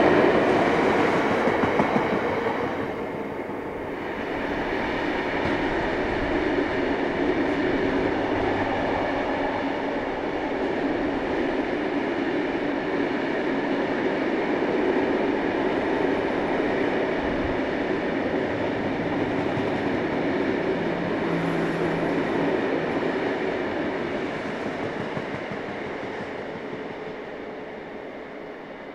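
Freight train of loaded stone hopper wagons rolling past, a steady rumble of wheels on rail. It eases a few seconds in, holds, then fades away toward the end.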